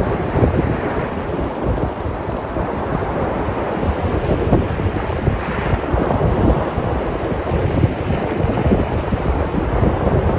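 Sea surf washing and breaking on the shore in a continuous rush, swelling and easing gently, with a wash about halfway through. Wind buffets the microphone, adding a low rumble.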